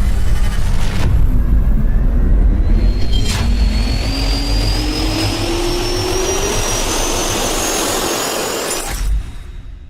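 Jet engine roaring loudly with a high whine rising steadily in pitch, as of engines spooling up or accelerating, the roar fading away near the end.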